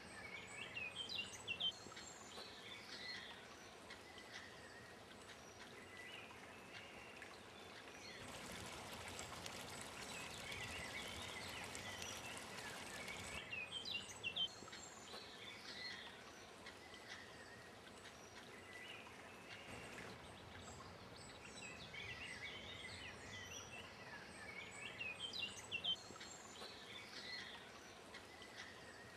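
Outdoor ambience of small birds chirping and singing, many short high calls throughout. From about eight seconds in, a steady rushing noise comes in for about five seconds and cuts off.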